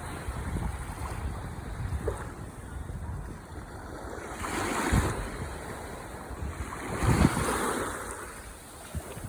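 Ocean waves washing onto the shore in a steady rush. Two waves surge louder, one about halfway through and one near the end.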